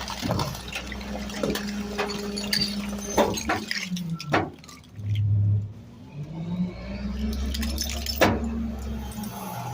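Rear-loader garbage truck packing a load: the engine and hydraulic packer run at a steady hum that drops away about three and a half seconds in, then climbs back up around six and a half seconds, with scattered knocks and clatter of trash in the hopper.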